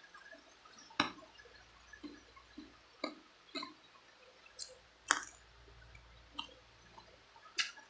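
Close-miked wet eating sounds of chicken feet being chewed and sucked, with short sharp smacks or crunches at irregular intervals of about a second.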